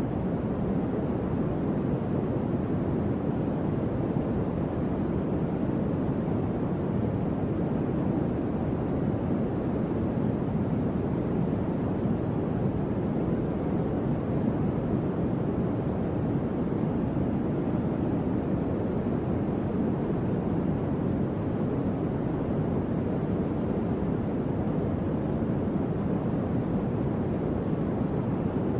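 A gentle electric fan running steadily: an even, low rush of moving air that never changes.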